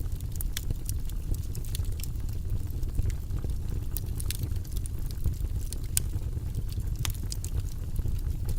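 Wood fire burning in a fireplace: a steady low roar of the flames with frequent irregular crackles and pops.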